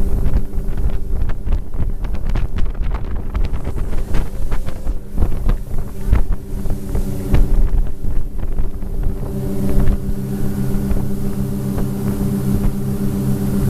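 Motorboat engine running at speed with a steady drone, with wind buffeting the microphone and many short knocks. The knocks ease and the engine sounds steadier about two-thirds of the way through.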